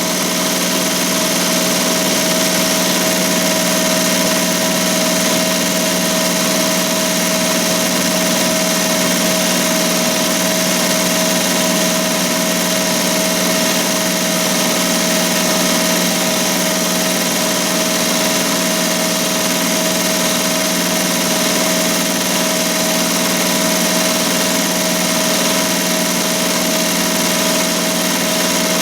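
ZSK Sprint 10-needle commercial embroidery machine running steadily while stitching at about 1,200 stitches per minute: an even, unbroken machine sound with a constant tone.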